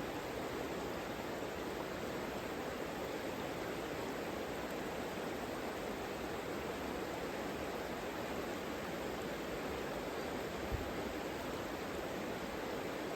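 Savica river flowing: a steady rush of water, with one brief low bump about eleven seconds in.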